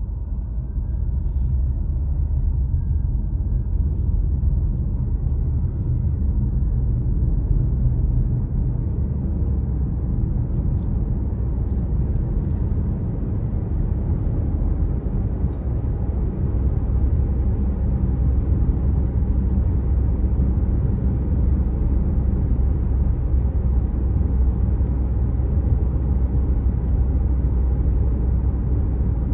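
Car driving on a road: a steady low rumble of tyres and engine. A few faint, short clicks occur in roughly the first half.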